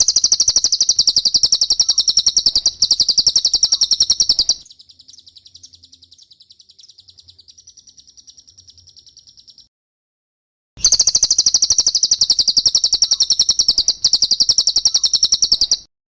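Cililin bird song: a loud, very fast, high-pitched trill of rapidly repeated notes, fading into a softer trill. After about a second's pause, the loud trill comes back about two-thirds of the way in and stops shortly before the end.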